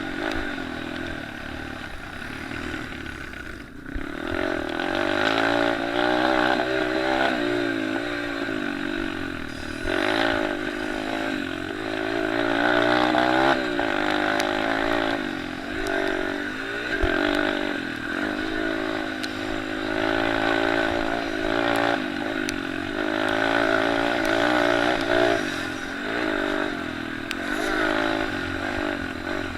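Several small single-cylinder pit bikes and minicross motorcycles racing, their engines revving up and down as they shift and throttle through the track.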